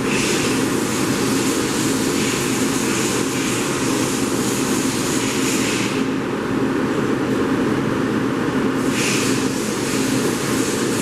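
Steady mechanical running noise with a low hum, and a higher hiss that cuts out for about three seconds from about six seconds in, then returns.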